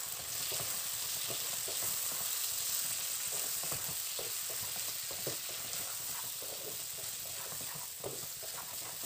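Raw chicken pieces sizzling in oil and onion-tomato masala in a black kadai, stirred with a wooden spatula that scrapes and taps against the pan many times over a steady frying hiss.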